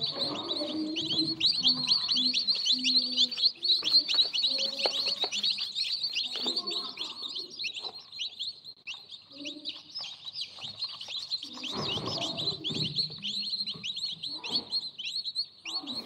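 A brood of newly hatched chicks cheeping continuously, many high, short, falling peeps overlapping at once.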